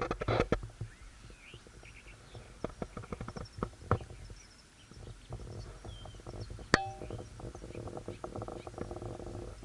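Small birds chirping faintly, short rising and falling calls, over irregular clicks and taps, with one louder click about seven seconds in.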